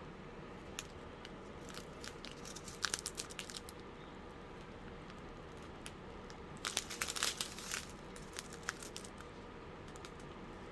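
Small plastic bags of diamond-painting drills being handled, crinkling in two short bursts, about two seconds in and louder again about seven seconds in.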